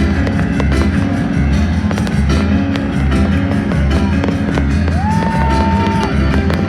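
Loud music with a steady, repeating bass line, with many sharp firework bangs and crackles over it.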